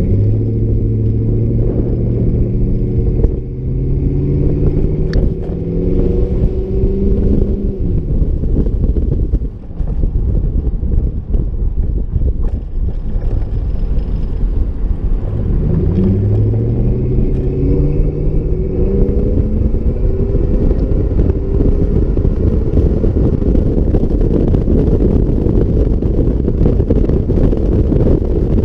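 A 2006 Ford F-150's V8 exhaust under acceleration: its drone climbs steadily in pitch for several seconds, drops off briefly about nine seconds in, climbs again from about fifteen seconds, then settles into a steady rumble with road noise.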